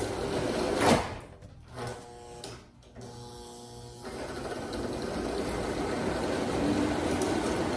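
O gauge model train running on the layout track, pulling boxcars: a steady electric-motor whir and rolling-wheel rumble that builds from about four seconds in. A single sharp clunk comes about a second in.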